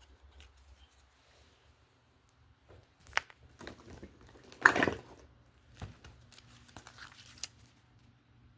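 Crinkling, rustling handling noises with a few sharp clicks, the loudest a brief rustle just under five seconds in, over a faint low hum.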